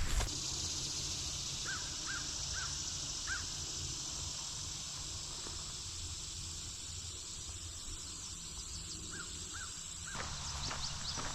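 Woodland ambience: a steady high-pitched hiss, with a bird giving two short series of brief calls, first four and later three. Footsteps on the trail start again near the end.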